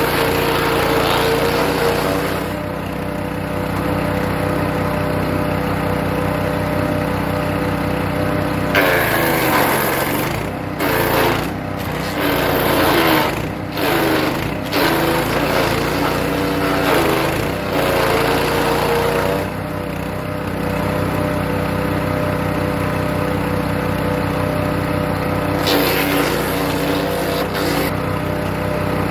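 Hecht 6208 petrol wood chipper running steadily, with bursts of chipping as birch branches are fed in. The engine pitch dips under the load, mostly from about nine seconds to about twenty, with a shorter burst near the end.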